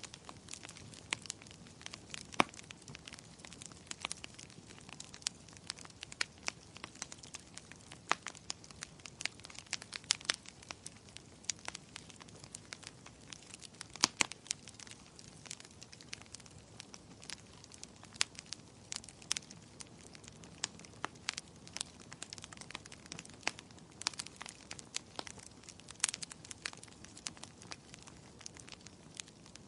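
Wood fire crackling: irregular sharp pops and snaps over a soft steady hiss, several a second, with a few louder pops about halfway through and near the end.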